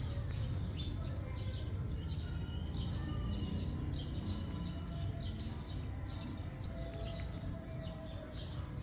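Small birds chirping: many short, high chirps in quick succession throughout, over a steady low background rumble.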